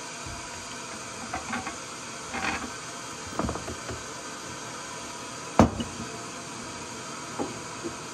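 A few light knocks and taps over a steady background hiss, with one sharper knock about five and a half seconds in.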